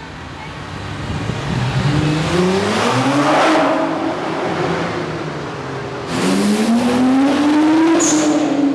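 High-performance car engine revving hard through a tunnel, its note climbing twice with a drop in between as it accelerates past.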